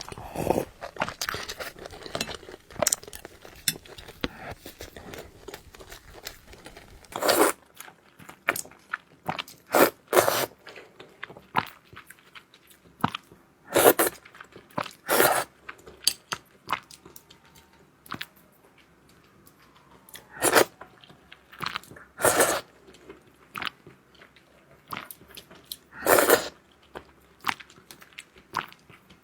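Close-miked eating: a person chewing and biting food with irregular wet mouth clicks and crunches. A handful of louder bites or smacks come several seconds apart.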